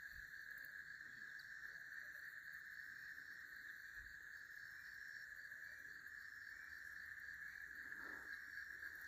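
Faint, steady chorus of night insects: a continuous high drone with a fainter, pulsing chirp above it.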